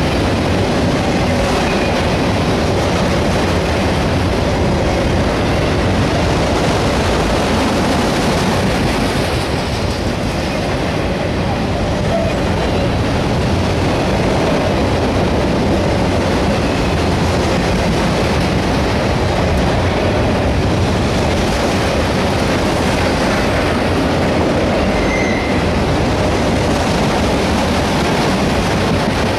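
Freight train of autorack cars rolling past close by: a steady loud rumble and rattle of steel wheels on the rails, with a brief faint wheel squeal near the end.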